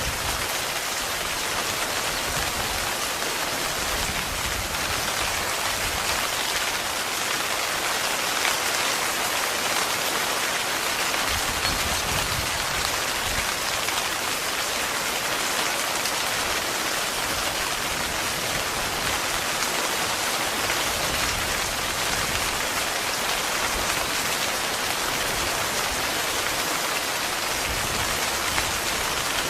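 Heavy rain falling steadily on a tent, a dense, even hiss of drops.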